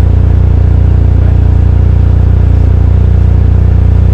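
BMW R 1250 RT motorcycle's boxer-twin engine running steadily with an even, low-pitched beat.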